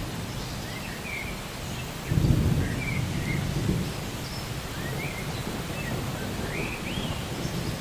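Steady rain with a low rumble of thunder rising about two seconds in and fading over the next couple of seconds. A bird chirps a few times over the rain.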